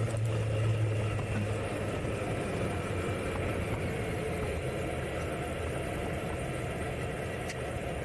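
Kawasaki Z900's inline-four engine running steadily at low revs, slightly louder in the first second or two.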